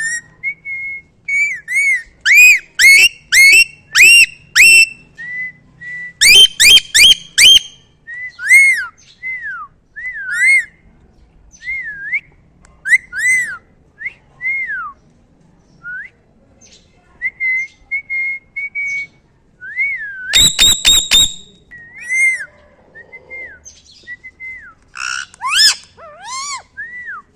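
Pet parrot whistling: many short arched whistle notes at much the same pitch, with two quick runs of harsher rapid calls, about six and twenty seconds in.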